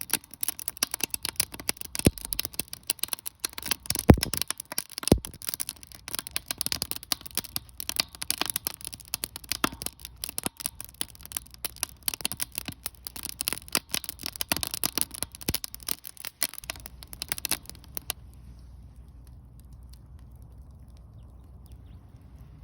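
Wood fire crackling and popping in a Solo Stove Ranger fire pit, with a few sharper pops in the first five seconds. The crackling stops about eighteen seconds in, leaving a faint low rumble.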